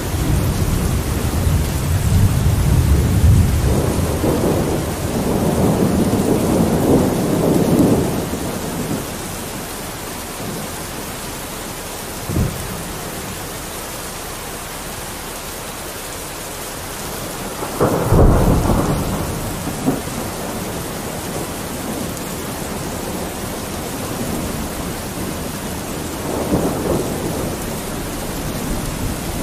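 Steady rain falling on a window with rolls of thunder: a long low rumble through the first eight seconds, a single sharp pop near the middle, the loudest rumble a little past halfway, and a softer one near the end.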